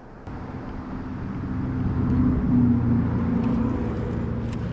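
A motor vehicle's engine runs, growing louder over the first two seconds or so and then holding steady.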